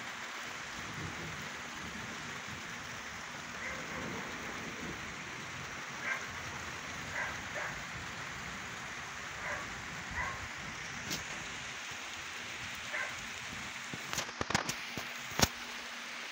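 Steady rain falling, with faint short sounds here and there. A quick run of sharp clicks comes near the end.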